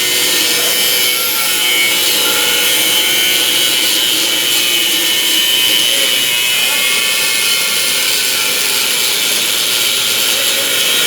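Angle grinder with its disc biting into metal: a steady high whine over a dense hissing scrape that wavers slightly in pitch as the disc is pressed into the work.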